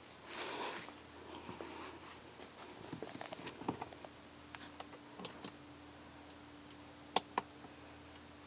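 Scattered light clicks and handling noises over a faint steady hum. Near the end come two sharp clicks in quick succession, the loudest sounds.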